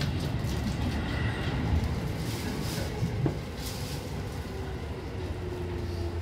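Seibu Kokubunji Line commuter train running on the rails, heard from inside the leading car: a steady low rumble with a few sharp wheel clacks over rail joints about halfway through.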